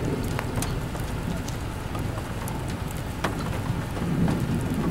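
Rain falling steadily, with scattered sharp ticks of drops striking close by over a low rumble.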